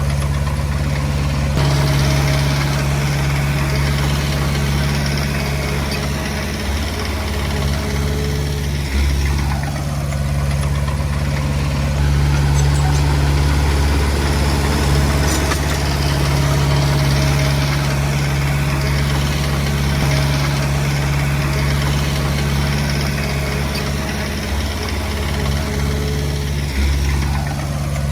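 Komatsu D20P bulldozer's diesel engine running steadily, its note swelling and easing several times as the load changes.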